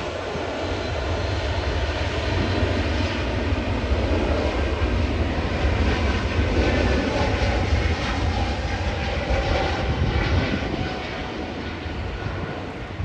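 Jet airliner engines, a steady rushing roar that builds slightly toward the middle and eases off near the end.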